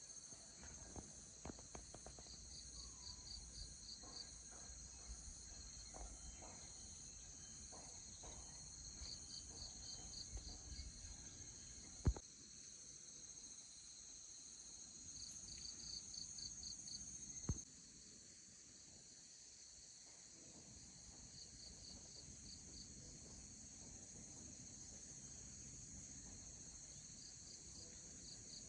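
Insects chirring steadily in a high, even drone, with a short pulsed trill repeating every few seconds over it. Two sharp clicks stand out, about twelve and seventeen seconds in.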